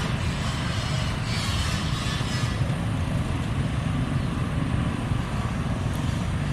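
A passenger train running past and moving away: a low rumble with a higher hiss over it that drops away about two and a half seconds in.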